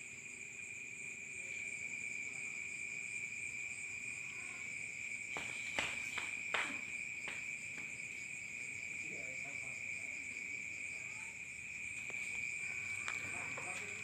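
Insects chirring steadily: a constant high trill under a higher, fast-pulsing one, with a few sharp clicks about halfway through.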